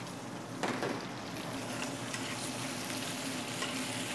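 Onions and garlic sizzling in olive oil in a frying pan as pasta is stirred in, with a steady hiss and light clicks and scrapes of stirring. A brief louder sound comes about half a second in.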